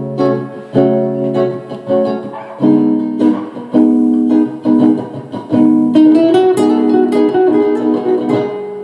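Guitar being improvised on: plucked chords and single notes, with a quick run of higher notes about six seconds in and the last chord left ringing near the end.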